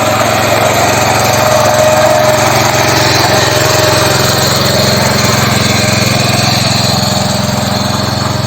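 Small engine of a 7.75 HP mini power tiller running steadily.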